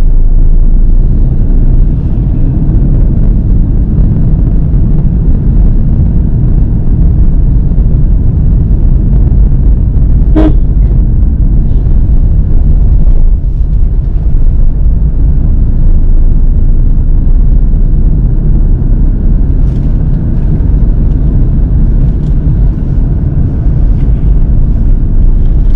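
Steady, loud low rumble of a Mahindra XUV300 driving on the road: road and running noise picked up by the GoPro. About ten seconds in there is one short sharp blip with a brief tone.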